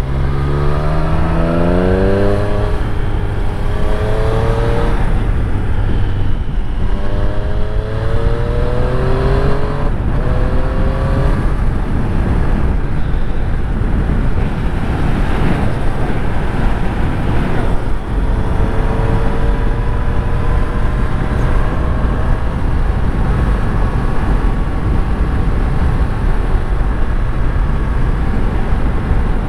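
Triumph Street Triple 765 RS's inline three-cylinder engine pulling up through the gears: its pitch rises and drops back about five times in the first ten or so seconds, then settles to a steadier run with a few gentler rises. Steady wind and road rush runs underneath.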